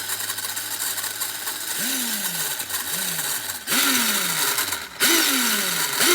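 Traxxas RC truck drivetrain running with a grinding rattle from the gearbox. From about two seconds in the throttle is blipped about five times, each time a motor whine that jumps up and falls away as it coasts. The grinding comes from gears wobbling back and forth on a bent gearbox rod.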